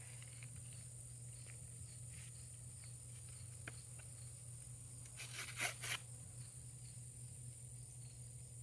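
Steady high insect drone under a low outdoor hum, with one faint click and, about five seconds in, a quick burst of three or four scraping strokes.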